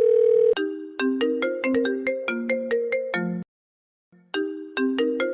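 Phone ringtone: a held tone, then a quick melody of plucked-sounding notes. After a short gap the melody starts over again.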